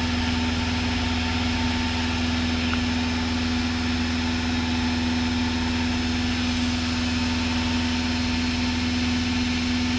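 Cessna 172's piston engine and propeller droning steadily in cruise, heard inside the cabin as one even, unchanging hum.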